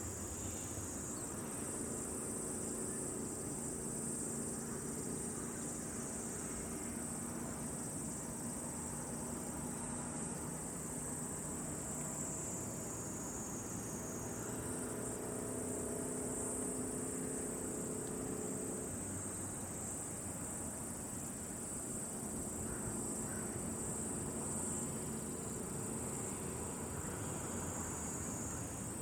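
Steady high-pitched insect chorus, continuous throughout.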